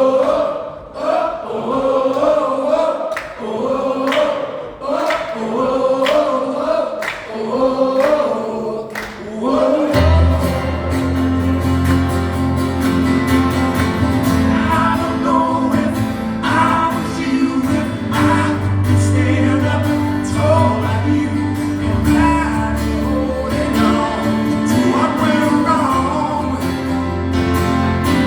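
Live acoustic song: singing over strummed acoustic guitar. About ten seconds in, a fuller held accompaniment with a deep bass comes in beneath the voice.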